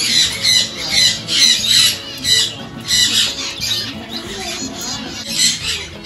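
Many caged aviary birds calling together: a constant jumble of short, high chirps and squawks, with no pause between them.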